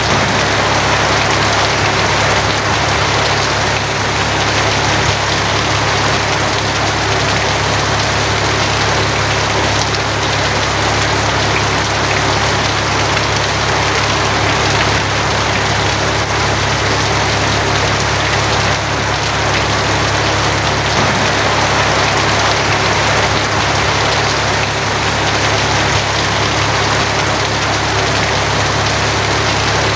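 Steady heavy rain drumming on a tin roof, an even hiss of drops with a constant low rumble underneath.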